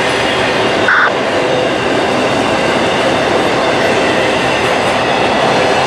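Norfolk Southern intermodal freight train rolling past on the main line: a steady, loud rumble and clatter of cars on the rails, with a brief high wheel squeal about a second in.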